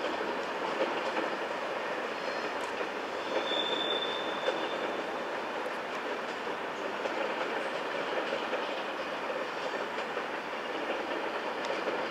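Corail passenger coaches rolling away over the track and points, a steady rolling noise with clickety-clack from the rail joints. A brief high wheel squeal comes in about three and a half seconds in.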